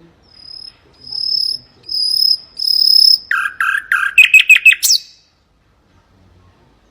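Nightingale singing one phrase: four clear high whistles about half a second each, then a few lower notes that break into a fast trill, ending in a quick upward sweep.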